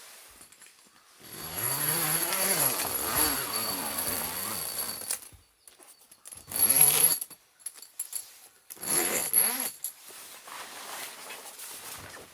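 A small motor-driven tool runs for about four seconds, then in two short bursts, its pitch wavering under changing load, with a steady high whine.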